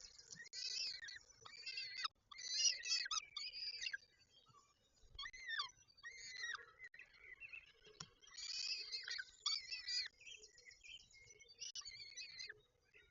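Peregrine falcons calling at the nest: repeated bursts of high calls about a second long with short gaps between, several of them falling in pitch.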